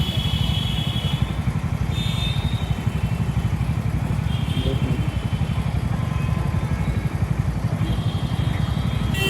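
Wind buffeting the microphone in a steady low rumble while riding an electric scooter in road traffic, with a few brief high-pitched tones now and then.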